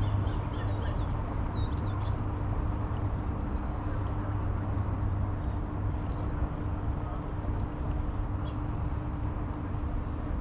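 Riverside ambience in a city: a steady wash of noise with a constant low hum, and a few bird chirps in the first couple of seconds.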